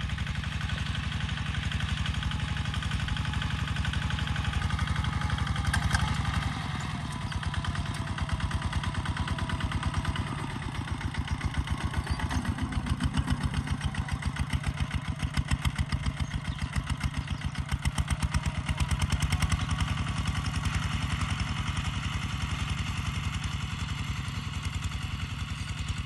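Kubota ZT140 Plus tractor's single-cylinder diesel engine running under plowing load, a fast even chugging. Its loudness dips briefly about ten seconds in, then swells and eases in waves.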